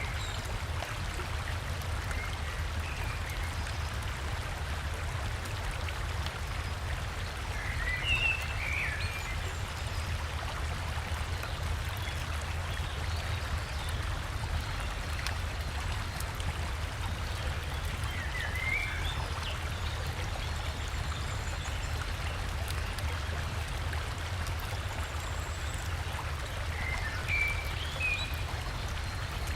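Steady rush of flowing river water over a low rumble, with three brief spells of forest bird chirps.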